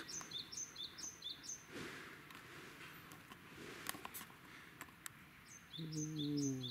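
A small songbird singing a quick run of repeated high chirps, then again near the end. A low, drawn-out voice falling in pitch comes in near the end, with a few faint clicks before it.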